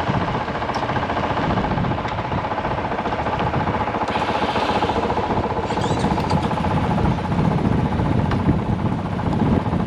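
Single-cylinder dual-sport dirt bike engine running steadily under way, with a fast pulsing exhaust beat.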